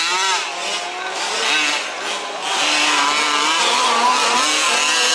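Several 1/5-scale off-road RC trucks' small two-stroke petrol engines racing together, their overlapping pitches rising and falling as they rev through the course.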